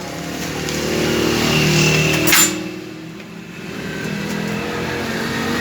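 A motor vehicle engine running close by. It swells to a peak about two seconds in, dies down briefly, then builds again.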